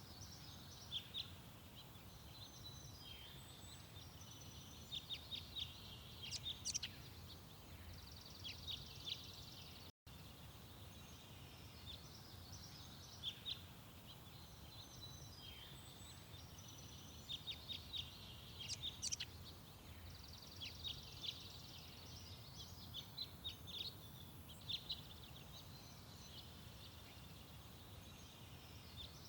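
Small garden songbirds chirping and calling in quick clusters of short, high notes and trills, over a steady low background rumble.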